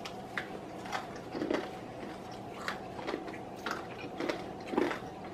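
Crispy fried chicken being bitten and chewed: a scattering of short, crunchy clicks of the fried breading.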